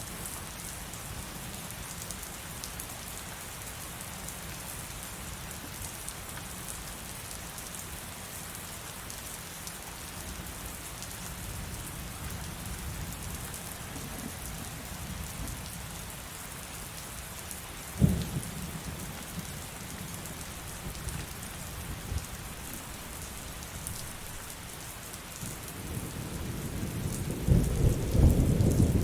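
Steady heavy rain hissing, with a sharp thunderclap about two-thirds of the way through and a long, deep roll of thunder building near the end.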